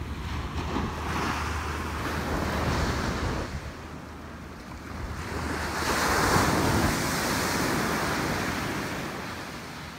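Ocean surf breaking and washing up the beach in two swells, the second and louder one about six seconds in, then easing off. Wind buffets the microphone with a steady low rumble underneath.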